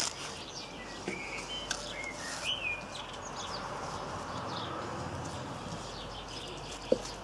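Small birds chirping and twittering in the background, short high calls that slide up and down in pitch, over a steady outdoor hiss, with a sharp click near the end.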